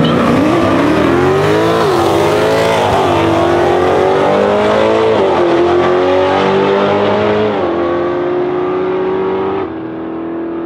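BMW M3 E92's V8, G-Power tuned with a custom exhaust, at full throttle from a standing start. Its pitch climbs and drops at each of about four upshifts, then the sound falls away near the end as the car pulls into the distance.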